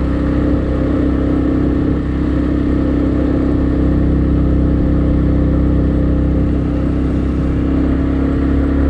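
Motorcycle engine running steadily under heavy load on a long uphill climb, straining: the bike is struggling with the steep mountain ascent.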